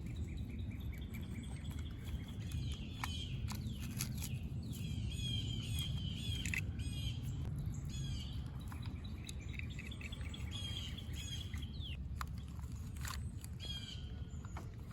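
Small birds chirping and tweeting repeatedly over a steady low rumble.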